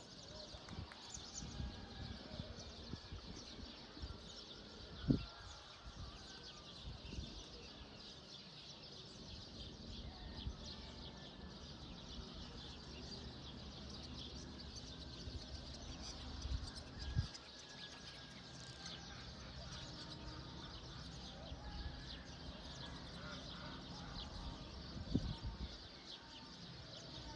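Outdoor morning ambience of many small birds chirping, with a few brief low thumps, about five, seventeen and twenty-five seconds in.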